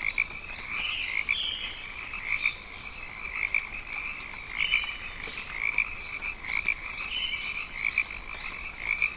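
Rainforest night chorus: many frogs calling together in a dense, pulsing band, with short bird chirps and whistles higher above it.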